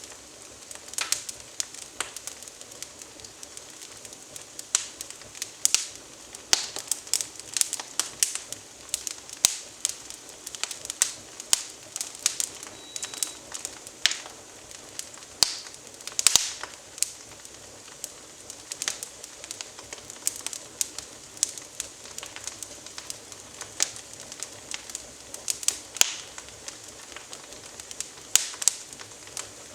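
Wood fire of small twigs burning in a fireplace, crackling with sharp, irregular pops several times a second over a faint steady hiss.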